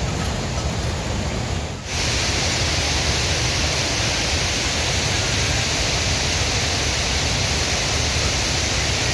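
Steady hiss of water. About two seconds in it switches suddenly to a louder, brighter hiss, which then stays even.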